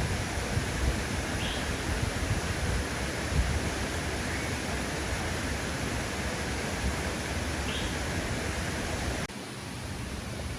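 Steady rushing of flowing water, with a few faint short chirps above it. The level drops abruptly near the end.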